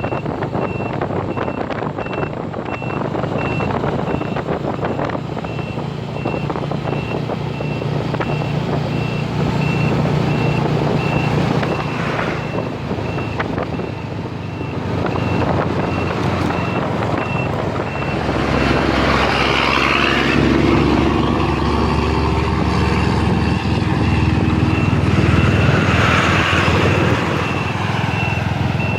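Strong storm wind rumbling and buffeting the microphone, heavier about two-thirds of the way in, with a high electronic beep repeating evenly, about twice a second, throughout.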